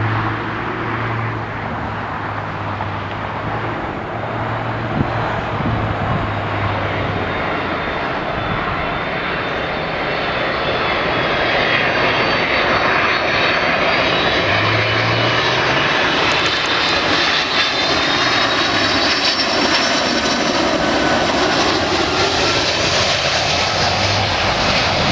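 Jet engines of a Boeing 767-300 freighter on landing, a steady rush of engine noise that grows louder about halfway through, with high whining tones that slowly glide in pitch.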